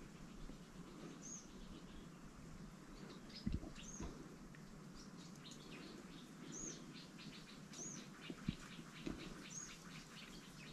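A small bird repeatedly gives a short, high, arching chirp every one to three seconds, faintly, with other brief chirps in between. A few soft knocks come in, the clearest about three and a half seconds in.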